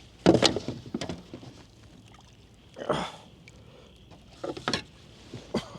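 Knocks and clatter of gear against a kayak hull: a sharp loud knock about a quarter second in, a few lighter knocks after it, a brief rushing swell around three seconds, and small clicks near the end.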